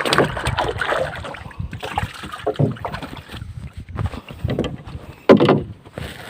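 Irregular knocks, rubbing and splashing from handling gear in a small wooden paddle boat, with a louder short burst about five seconds in.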